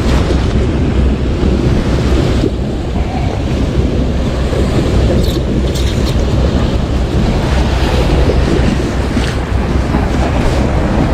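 Loud, steady wind rumbling on the microphone, mixed with the wash of the sea, with a few faint clicks.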